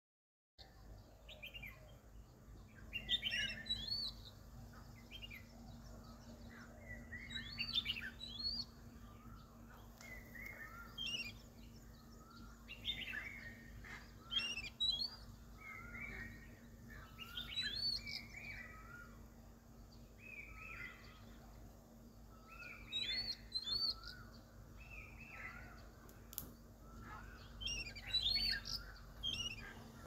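Wild birds chirping and calling over and over, short phrases that sweep up in pitch, with a steady low hum underneath.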